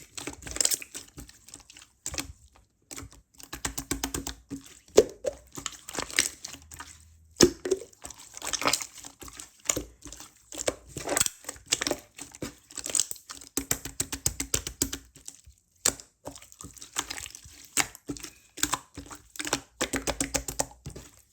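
Close crinkling and crackling handling noise, dense runs of small sharp clicks with brief pauses.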